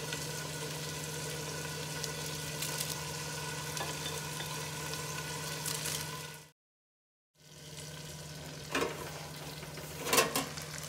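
Potatoes and onions frying in mustard oil in a steel kadhai: a steady sizzle with a low steady hum beneath it. The sound drops out for about a second just after the middle, and a couple of short knocks come near the end.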